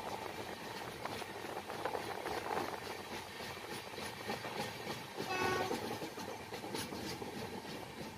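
Passenger train coaches running on the rails at speed: a steady rolling rumble and hiss of wheels on track. A brief faint tone is heard about five seconds in.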